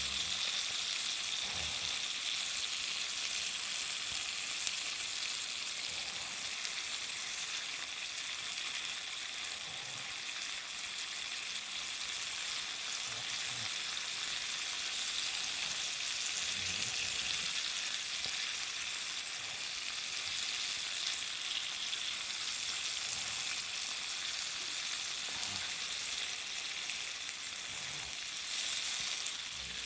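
Garlic shrimp and vegetables sizzling steadily in a small cast-iron skillet as they stir-fry, with occasional soft knocks of chopsticks turning the food in the pan.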